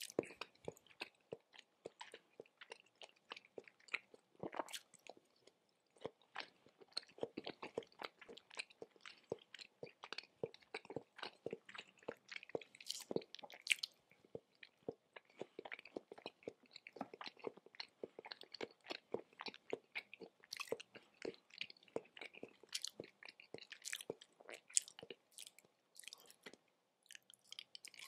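Close-miked chewing of raw tuna sashimi: wet, sticky mouth sounds and many quick lip-smacking clicks, with a few louder sharp clicks along the way.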